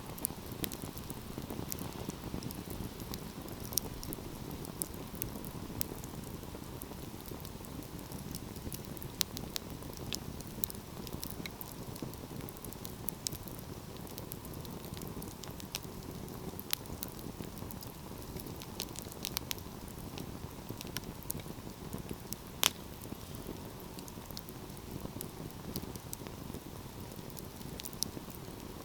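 Wood fire burning in a fireplace: a steady low rush of flames with scattered sharp crackles and pops, the loudest pop coming about three-quarters of the way through.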